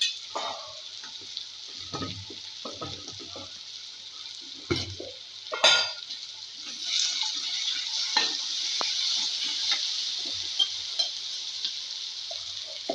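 Chopped onion, green chilli and tomato with spice powder sizzling in hot oil in a steel kadhai. A steel spatula scrapes and knocks against the pan a few times in the first half. The sizzle grows louder about halfway through.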